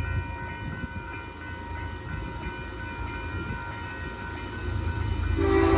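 Union Pacific freight train approaching with a low rumble that grows louder, then the locomotive's air horn sounds loudly about five seconds in.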